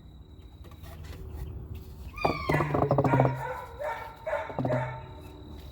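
A pet animal crying out: a long pitched call about two seconds in, followed by a few shorter calls.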